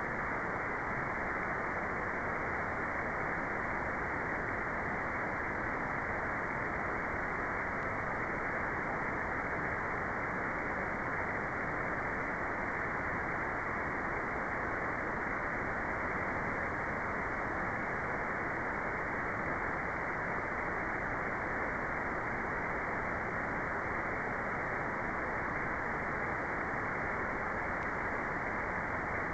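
Steady white noise with the treble cut away, so it sounds like a dull, even hiss that never changes.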